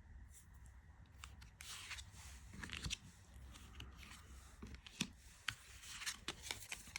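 Tarot and oracle cards being handled, shuffled and laid down: papery rustling and sliding with irregular sharp little clicks of card stock.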